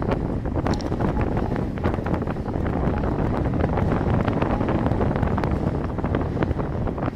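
Wind buffeting the microphone of a camera on a moving bicycle, a steady low rumble with scattered light clicks and rattles.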